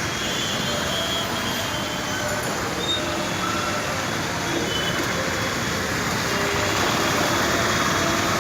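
Heavy rain mixed with road traffic, a steady, even rushing noise with no breaks.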